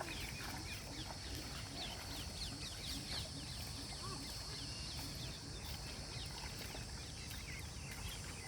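Birds chirping in quick, short, falling notes, several a second, over a steady high insect drone and a low rumble of wind.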